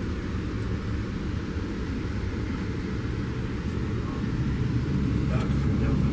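Steady low rumble of a moving Metrolink commuter train, heard from inside a bilevel passenger coach. It grows a little louder about four and a half seconds in as another Metrolink bilevel train runs close alongside, and a few faint clicks come near the end.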